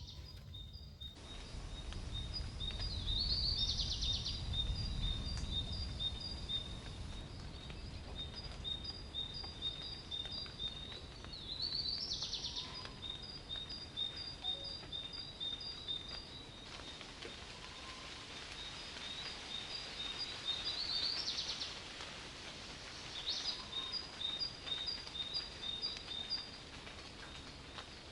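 A bird calls a quick rising note followed by a long run of short, evenly spaced chirps, the phrase coming round several times, over a steady hiss of rain. A low rumble of distant thunder swells and fades in the first few seconds.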